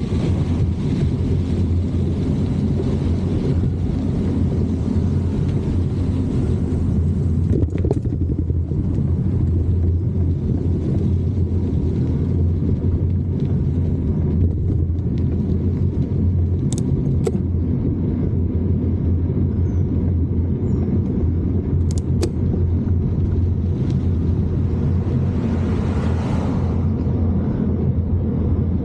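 Steady low rumble of wind and tyre noise on a microphone riding along on a bicycle, with a few sharp clicks and a brief hiss near the end.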